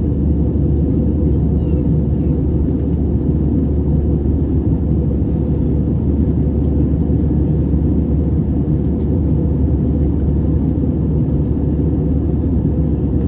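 Steady cabin noise inside an Airbus A320 in flight: an even, deep rumble of engines and airflow, without change.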